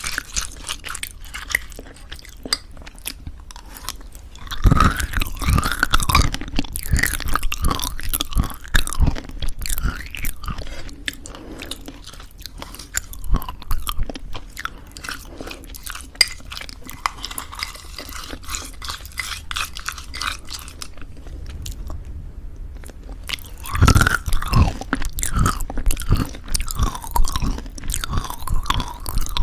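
Close-miked crunching and chewing of homemade granola mixed into thick yogurt: crisp, dense bites with wet mouth sounds. It grows louder about five seconds in and again near the end, with a brief lull a little before.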